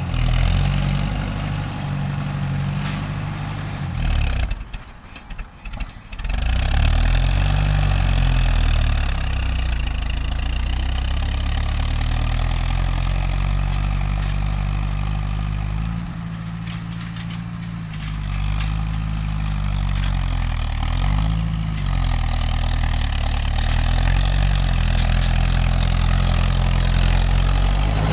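Oliver 550 tractor engine running, its speed rising and falling several times as the throttle is changed. About four seconds in, the sound briefly drops away, then the engine note comes back and revs up.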